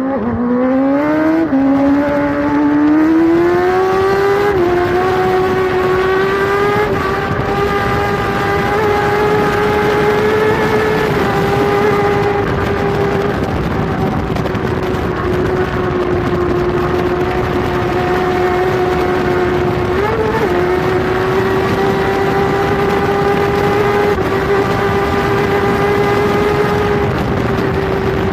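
Kawasaki ZX-10R superbike's inline-four engine at racing speed, heard onboard: the revs climb through two quick upshifts in the first few seconds, then hold high and nearly steady, with a brief rise and drop about twenty seconds in, over steady wind and road noise.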